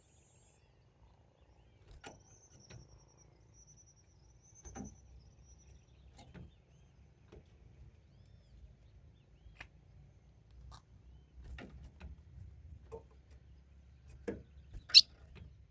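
Scattered clicks and knocks over a low rumble, the loudest a sharp click near the end. A faint thin high tone wavers for a few seconds early on.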